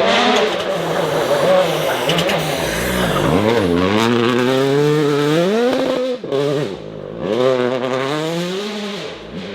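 Rally car engine revving hard, its note climbing in pitch and dropping back several times as it accelerates and lifts off, with a brief sharp drop about six seconds in.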